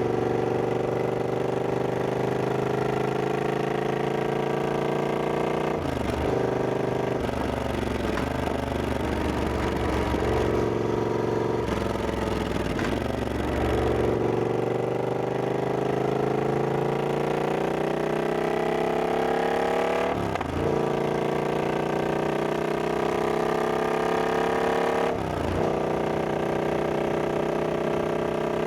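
Triumph Scrambler 1200X's parallel-twin engine running under way, its pitch climbing steadily as it pulls and dropping sharply at gear changes about 6, 13, 20 and 25 seconds in.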